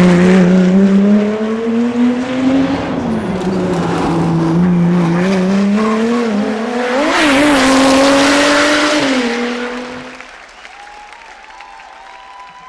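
A rally car's engine running hard under load, its pitch climbing slowly with a few dips as it drives through a stage, then fading away about ten seconds in.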